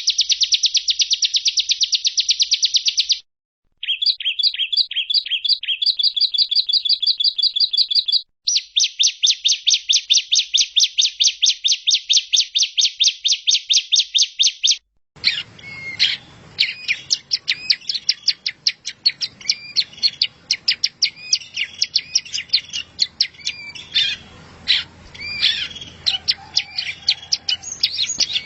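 Recorded songbird song played as a masteran, a tutoring track for caged songbirds. For about the first 15 seconds there are fast trills of evenly repeated high notes, in separate takes with abrupt cuts and short gaps. After that a busier recording of varied chirps runs over a background hiss.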